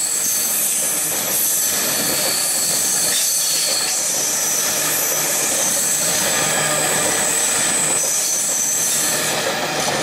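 Freight train of loaded bogie wagons rolling past at speed, a steady rumble and clatter of wheels on rail with a high-pitched metallic squeal over it.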